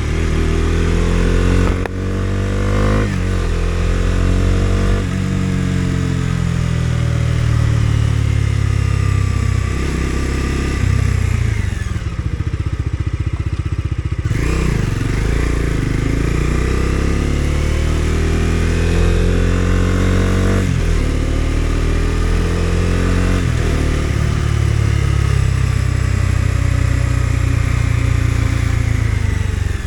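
Bajaj Dominar 250's single-cylinder engine accelerating through the gears while riding. The pitch climbs, then drops at each upshift, and this repeats many times. About halfway the throttle closes briefly and the engine slows before pulling up again.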